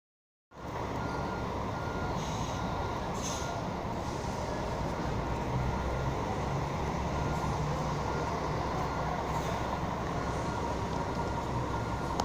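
Steady vehicle noise with a low rumble that starts abruptly about half a second in, with a faint beep repeating about twice a second, like a reversing alarm.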